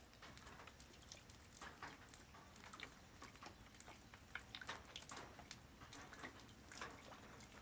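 Light rain falling on the ground: quiet, irregular drop impacts over a faint steady hiss.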